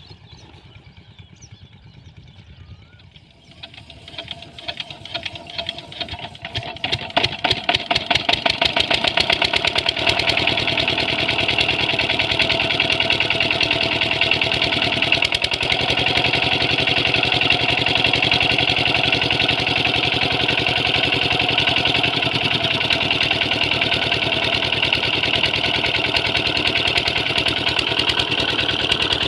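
12 hp Lister diesel engine driving a water pump, starting up: slow, separate beats begin a few seconds in, quicken and grow louder over several seconds, then it settles into steady running.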